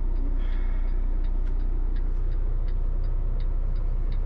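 Concrete mixer truck's diesel engine running steadily, heard from inside the cab, with a light regular ticking about three times a second.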